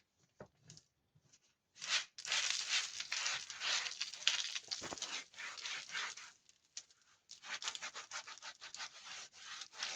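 A rag rubbing over brickwork, wiping off dried excess mortar from freshly filled joints. It comes as rapid back-and-forth scrubbing strokes in two spells, with a short pause a little past the middle.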